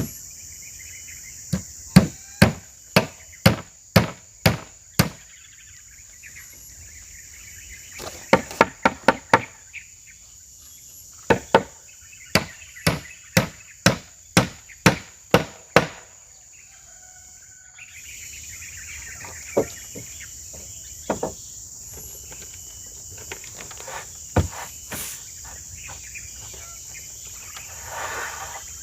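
Hammer blows in runs of about two strikes a second, with pauses between the runs, typical of nails being driven while building the dog house and its roof. A steady high chorus of insects goes on underneath.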